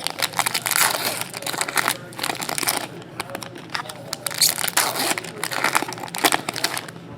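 Thin foil-type trading card pack wrappers crinkling and rustling in a run of crackly bursts as packs are handled and opened.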